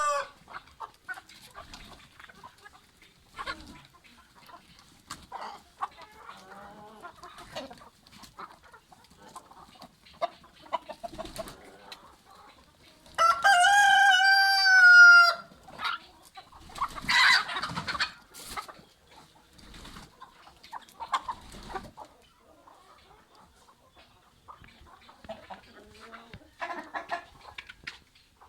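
Chickens clucking in scattered short calls, with a rooster crowing loudly about halfway through, one crow lasting about two seconds.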